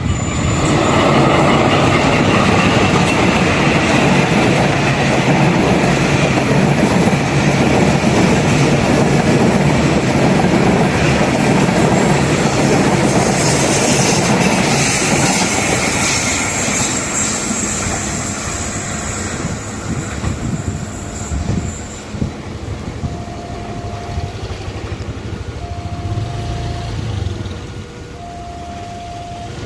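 A train passing close by, its wheels rumbling and clattering on the rails, loud for about twenty seconds and then fading away. Near the end a two-note electronic warning tone repeats, typical of a level-crossing alarm.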